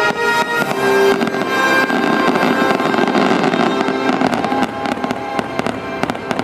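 Holiday fireworks show music playing, with fireworks going off over it; a rapid run of sharp pops and crackles comes in the second half.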